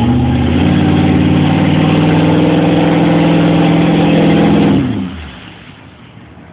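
Ford F-250 pickup engine revved hard and held at high revs for about five seconds while its wheels spin in mud, flinging it, then the revs drop away.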